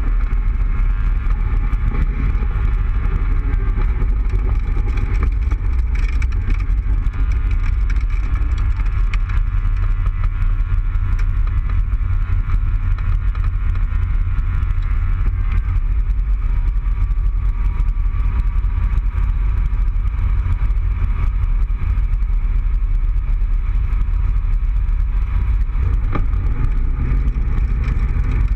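Open Cobra roadster's engine running at a steady cruise, heard from the open cockpit with heavy wind rumble on the microphone. Right at the end the engine note starts to climb.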